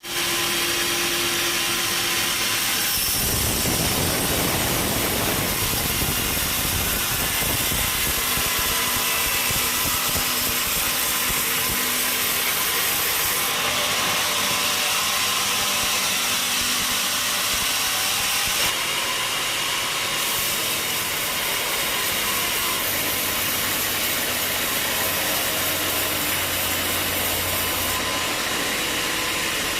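Sawmill machinery running and cutting timber: a steady, loud mechanical noise with a strong hiss, shifting in tone a few times.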